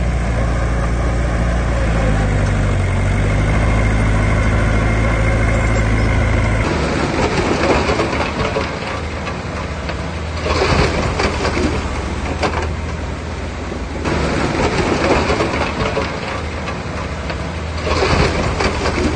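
Heavy diesel engine of earthmoving equipment running with a low, steady drone that rises slightly in pitch a couple of seconds in. About six and a half seconds in, the drone stops abruptly and a rougher, noisier machine sound takes over, surging louder about every four seconds.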